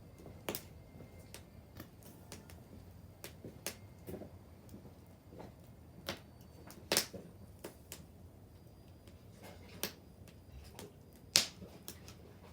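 Wood bonfire crackling: irregular sharp pops and snaps, the two loudest about seven and eleven seconds in.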